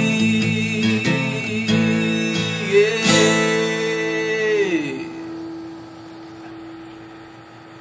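Acoustic guitar strumming the closing chords of a song, with a held sung note that wavers until about five seconds in. The last chord then rings on and fades away.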